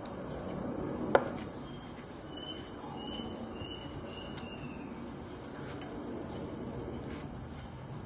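A single sharp clink of a hard object about a second in, then a few fainter ticks, over a steady low hiss.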